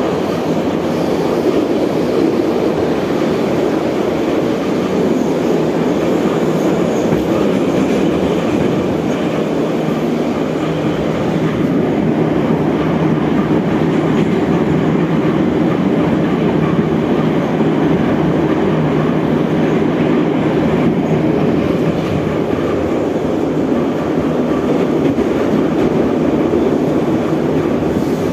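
Moscow Metro 81-717/714 subway train running between stations, heard from inside the carriage: a steady rumble of wheels on rail and traction drive that holds an even level throughout.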